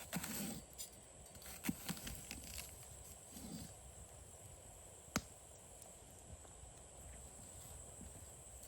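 Sparse, faint clicks and knocks over a quiet outdoor background, with one sharp click about five seconds in.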